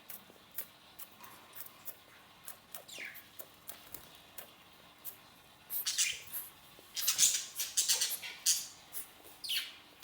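Pet lovebirds chirping with sharp, high squeaks, scattered at first and then a dense, louder flurry in the second half, with a quick downward-sliding call about three seconds in and another near the end.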